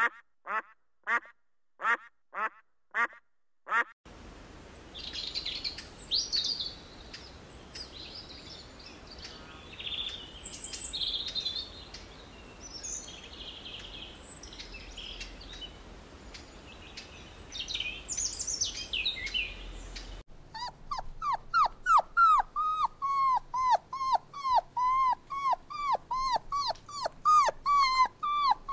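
A run of animal calls in three parts. First come duck-like quacks, about two a second. Then scattered high chirps and squeaks sound over a steady hiss, and about two-thirds of the way through these give way to a fast series of dog-like yelps and whimpers, about three a second.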